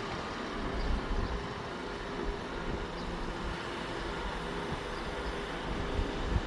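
Scania N230 bus's diesel engine running steadily as the bus pulls away, with a faint steady whine under the road and engine noise.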